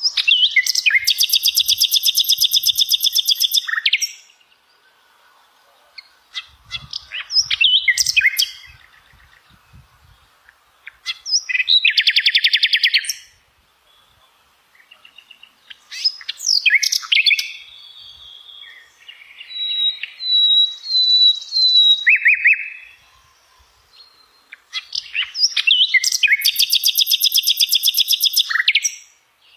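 A songbird singing: long, rapid trills of a few seconds each, repeated after pauses, with shorter chirps and whistled notes between them.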